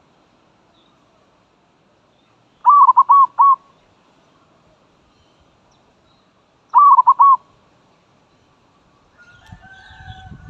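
Zebra dove (merbok) calling: two short bursts of quick cooing notes, about four seconds apart. A fainter sound with a low rumble starts near the end.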